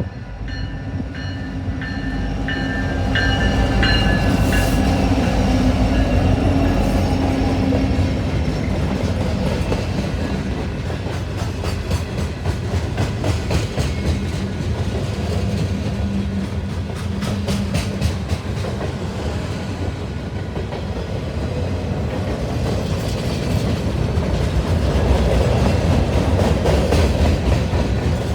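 Train passing close by: a low engine rumble first, then a steady clickety-clack of wheels over rail joints, swelling again near the end.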